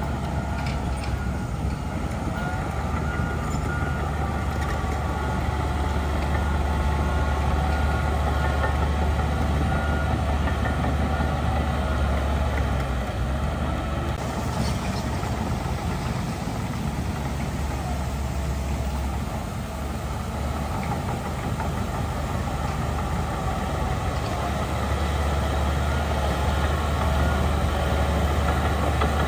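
Heavy diesel engine of earthmoving machinery running steadily with a deep low drone, easing off a little past the middle and then building again.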